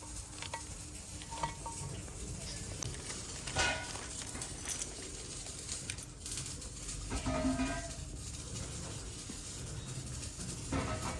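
Scattered clinks and knocks of metal engine parts being handled, a few of them ringing briefly, over a low background rumble.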